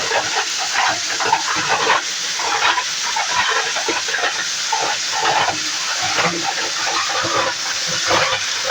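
Plastic grinding machine running and chopping plastic scrap: a loud, continuous rushing noise full of irregular crackles and crunches.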